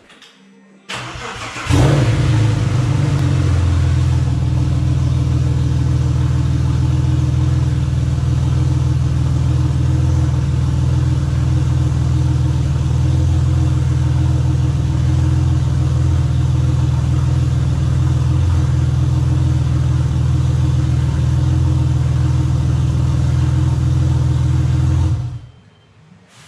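Audi B5 S4's 2.7-litre twin-turbo V6, rebuilt to RS4 spec with tubular manifolds and RS6 hybrid turbos, starting for the first time after the conversion: it cranks briefly on the starter, catches with a flare, then idles steadily and is switched off near the end, cutting out suddenly.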